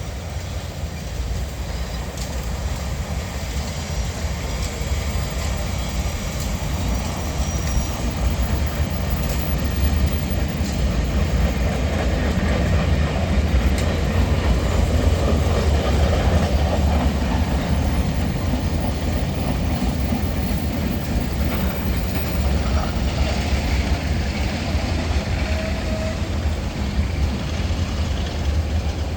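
Train running on rails: a steady rumble that grows louder toward the middle and eases off a little near the end.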